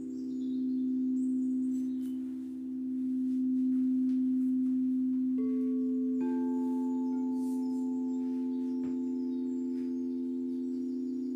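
Singing bowls ringing: one low bowl sustains a steady tone with a slow swell and fade, and about five and six seconds in further bowls sound in at higher pitches and ring on together. Faint bird chirps come through high above the bowls.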